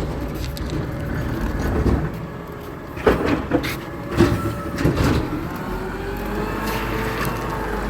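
Garbage truck running with a steady low engine rumble, with a run of sharp clanks and knocks about halfway through.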